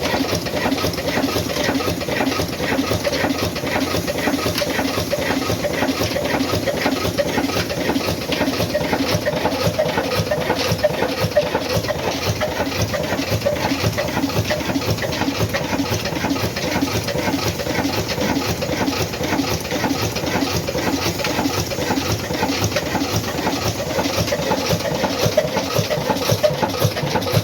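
Old black Ruston-type diesel engine running steadily with a regular mechanical beat.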